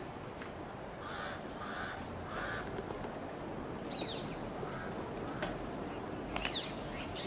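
Birds calling outdoors: three short, harsh caw-like calls in quick succession, then two brief falling whistles later on.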